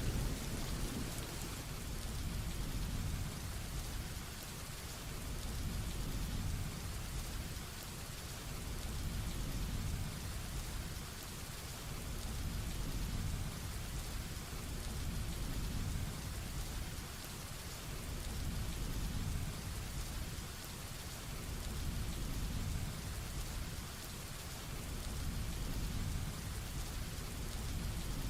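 Heavy rain falling steadily, with a low rumble of thunder dying away at the start and a low rumble that swells and eases every few seconds.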